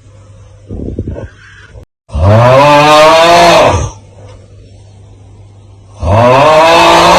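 The 'Aauuggh' meme sound effect on a loop: a loud, rough, drawn-out 'aauuggh' yell whose pitch bends up and then down, heard twice about four seconds apart, with a shorter, quieter breathy sound between them.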